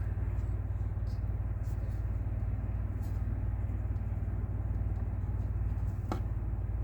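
Steady low rumble of a car engine idling, heard from inside the cabin, with a faint click about six seconds in.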